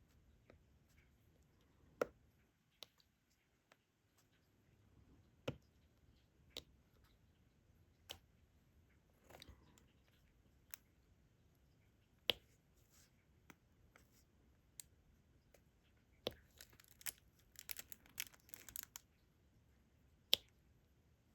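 Faint, sharp clicks of a diamond-painting pen placing resin drills onto the canvas, one every second or two, with a brief flurry of quicker clicks and rattling towards the end.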